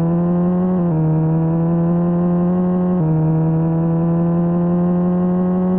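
Car exhaust drone held at high revs, one steady pitched note whose pitch creeps slowly up and drops abruptly twice, about a second in and again about three seconds in.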